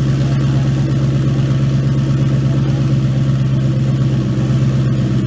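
Single-turbo 2017 Mustang GT's 5.0 L Coyote V8 idling steadily.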